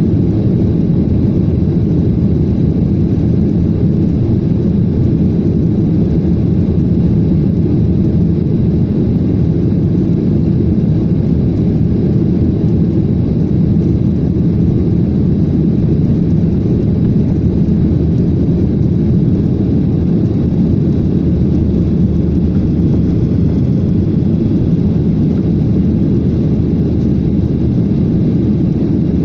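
Jet airliner's engines and airflow making a steady, muffled low rumble that does not change in level.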